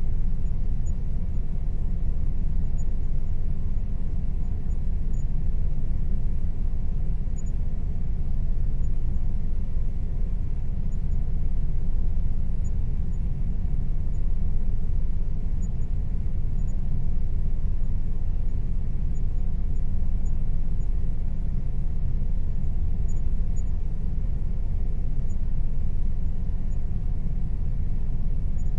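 Air conditioner running steadily: an even, low-pitched hum of air and motor, with a faint steady tone above it.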